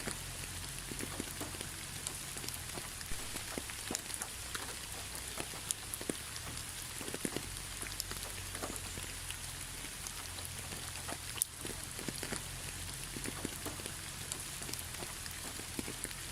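Steady rain: an even hiss with many single drops ticking sharply now and then.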